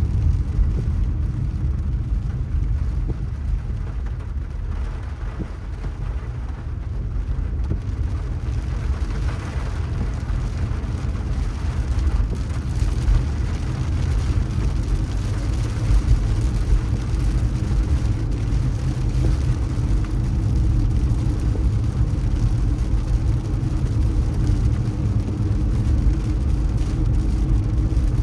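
Car driving through city streets: a steady low rumble of engine and tyres on the road. It grows a little louder and hissier from about nine seconds in.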